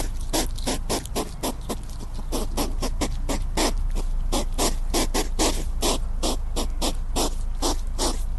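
An animal giving a fast, even series of short calls, about four a second, over a steady low hum.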